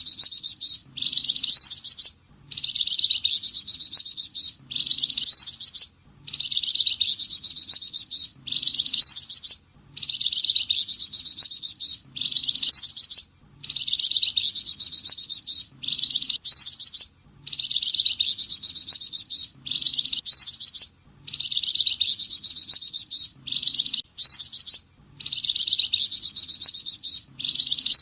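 Flamboyan bird singing its 'tembakan' song: rapid, high-pitched trilled phrases a few seconds long, each ending in a short pause, repeating at an even rhythm of about one every four seconds.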